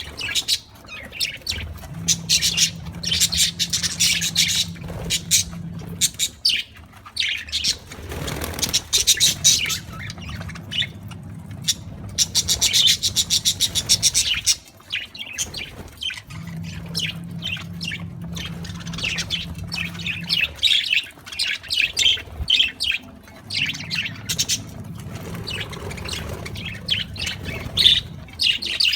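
A flock of budgerigars chirping and chattering in rapid, overlapping bursts, with a low hum coming and going behind them.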